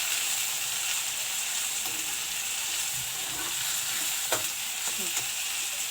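Ginger-garlic paste with onion, tomato and capsicum frying in hot oil in a kadhai, sizzling steadily while it is stirred. There is one sharp knock about four seconds in.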